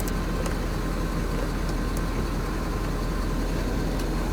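Ford 6.7L Power Stroke turbodiesel V8 idling steadily, with little of the typical diesel clatter, more like a noisy gas engine. A few faint light clicks sound over it.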